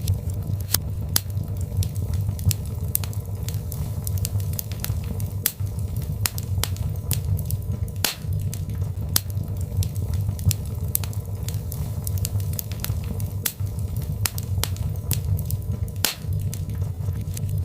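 Birch logs burning in a fireplace, crackling with frequent sharp, irregular pops over a steady low rumble of the flames.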